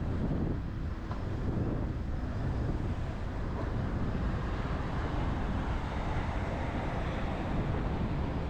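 Passenger train running at a steady speed: an even rumble of the wheels and carriage with air rushing past.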